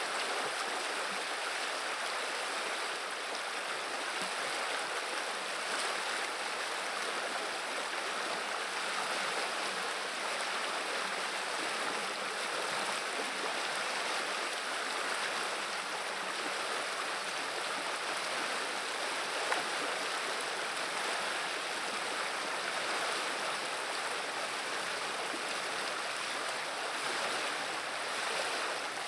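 River water running steadily over a shallow bed, a constant babbling rush.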